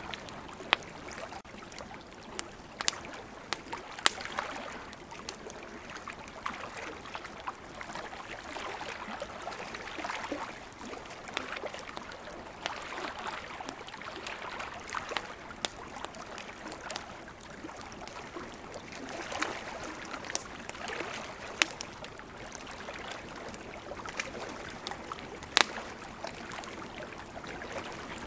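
Campfire crackling, with sharp pops scattered throughout and the loudest about four seconds in and near the end, over the steady wash of ocean waves swelling every few seconds.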